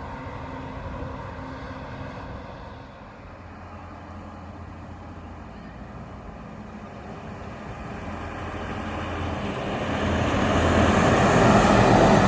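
A heavy truck approaching along the road, its engine hum and tyre rush growing steadily louder over the second half and loudest near the end.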